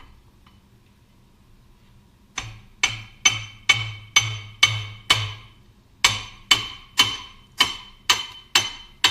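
Hammer tapping on steel parts, steady blows about two a second, each with a short metallic ring; a run of seven, a brief pause, then seven more.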